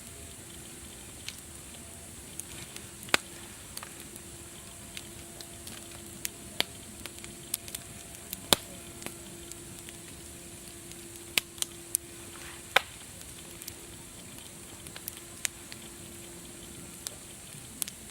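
Wood fire crackling: irregular sharp pops and snaps over a steady hiss, with a faint steady hum under them for most of the stretch.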